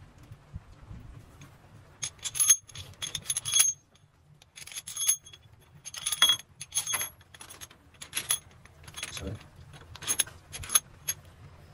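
Metal tools and engine parts clinking and rattling in short clusters of ringing clicks, with quiet gaps between them, over a faint low steady hum.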